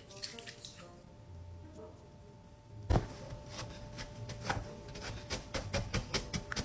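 Cornstarch and water being mixed by hand in a bowl: a single loud knock about three seconds in, then a quickening run of clicks and taps, with a faint wet swishing before it.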